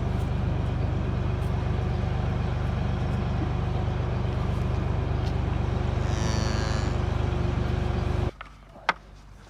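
A JCB's diesel engine idling steadily, left running to warm its engine and hydraulic oil in sub-zero cold. It cuts off suddenly about a second before the end.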